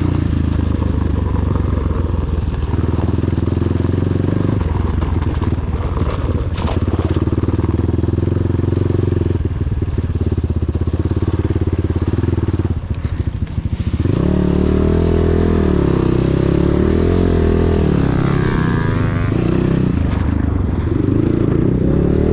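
KEWS K16 PRO enduro motorcycle engine running under way, fairly steady at first. From about halfway through it gets louder and its revs rise and fall repeatedly with the throttle.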